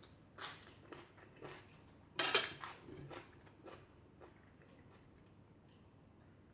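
A person eating close to the microphone: a string of short chewing and lip-smacking noises, the loudest about two seconds in, dying away after about four seconds.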